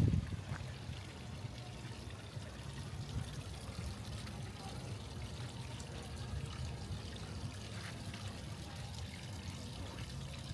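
Water pouring and trickling steadily, as from a small stream or garden waterfall, with a brief low thump at the very start.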